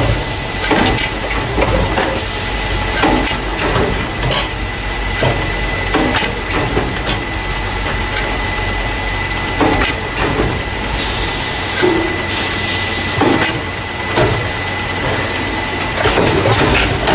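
Carton case packer running as it transfers paper juice and milk cartons into plastic crates: a steady machine hum with a thin high tone, and irregular clicks, knocks and clatters throughout. There is a burst of hiss about eleven seconds in.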